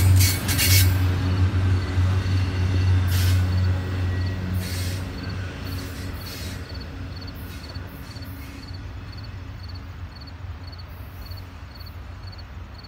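Double-stack intermodal well cars rolling past on the rails: a low rumble with a few brief sharp noises, fading steadily as the end of the train moves away. A faint insect chirp repeats at an even beat about twice a second.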